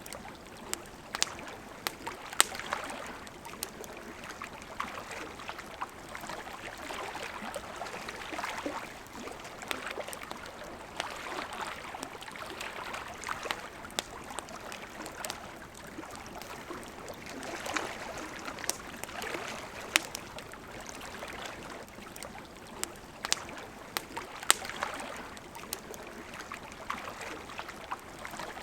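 Wood fire crackling, with irregular sharp pops and snaps, over the steady rush of a flowing river that swells and eases every few seconds.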